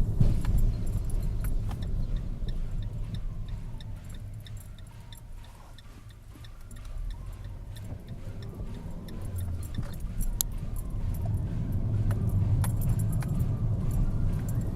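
Cabin noise of a 2012 Fiat Punto 1.2 on the move: a low engine and road rumble that dies down about five seconds in and builds again, with a run of light metallic jingling ticks above it.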